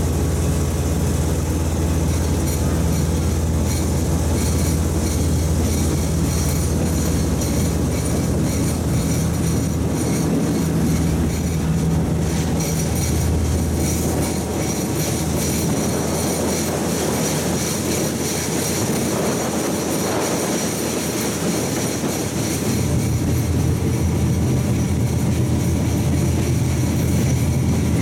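Diesel railcar running along the track, heard from an open window: a low engine drone under steady wheel-on-rail and rushing air noise. The engine note drops away for several seconds in the middle and comes back strongly near the end.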